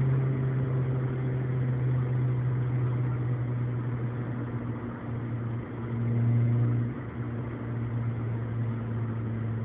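Suzuki Swift Sport with a BBK complete exhaust system droning steadily while driving, heard from inside the cabin. The drone swells louder about six seconds in and drops back about a second later.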